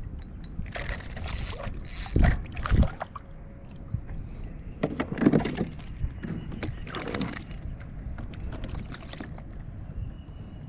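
Irregular knocks and rustling on a fishing kayak with water around it, about seven short bursts, the loudest about two seconds in.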